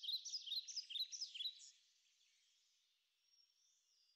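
Faint bird chirping: a quick run of repeated high chirps that fades out a little under two seconds in, followed by near silence with a few faint chirps near the end.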